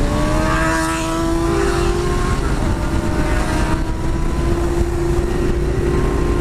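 Yamaha Bulldog's air-cooled V-twin engine pulling at road speed under heavy wind rumble on a helmet camera. Its note rises over about the first second, then holds steady at cruise.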